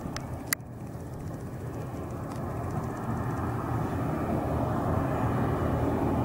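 Engine noise of an arriving airliner, a low rumble that grows steadily louder as the aircraft approaches. A sharp click about half a second in.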